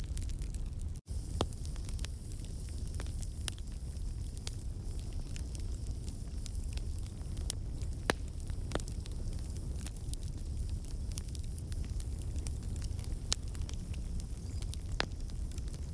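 Wood campfire burning: a low steady rumble with scattered sharp crackles and pops from the logs. The sound cuts out to silence for an instant about a second in.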